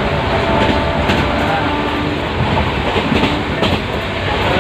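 Passenger train running along the track, heard from on board: a steady rumble with a few clacks of the wheels over the rails.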